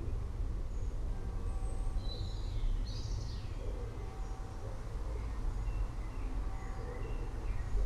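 Forest ambience: birds chirping over a steady deep rumble, with one louder swooping bird call about two to three seconds in.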